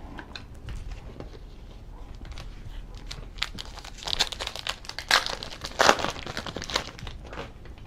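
Foil trading-card pack wrapper being torn open and crinkled, irregular crackling that is densest a few seconds in.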